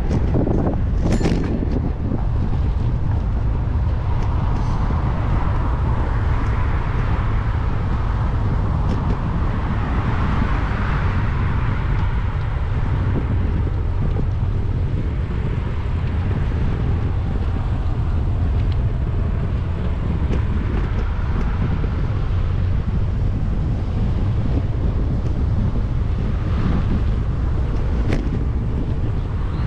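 Wind buffeting the microphone of a bike-mounted action camera while riding, a steady low rumble, with road traffic under it that swells about ten seconds in.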